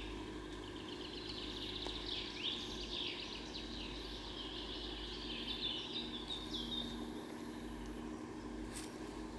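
Songbirds singing outdoors, a continuous run of quick chirps, trills and short down-slurred notes, over a steady low hum.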